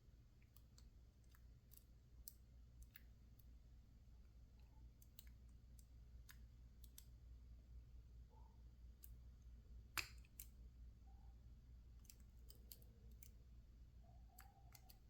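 Faint, scattered clicks of a lock pick working the pins inside a PacLock 410 Pro padlock under tension, with one sharper click about ten seconds in, over a low steady hum.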